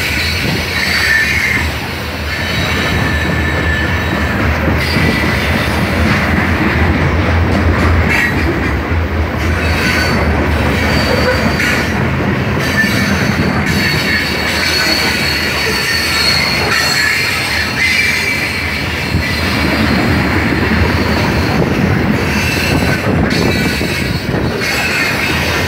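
Grain train's covered hopper cars rolling past close by: a steady rumble of steel wheels on rail with high squealing from the wheels and a few clicks over rail joints.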